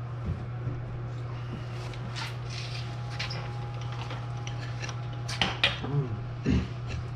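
Scattered light metallic clinks and knocks of tools and parts being handled, over a steady low hum, with a few louder knocks about five and a half seconds in.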